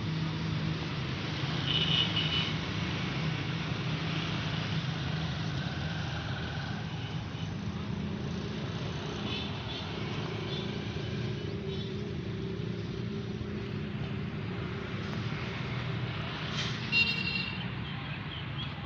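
A steady, low engine drone, like motor traffic, with a few short high chirps at intervals and a brief louder high sound near the end.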